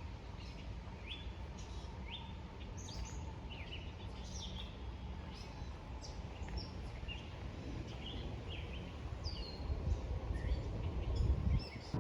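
Several small songbirds chirping and calling in quick, scattered notes over a steady low rumble.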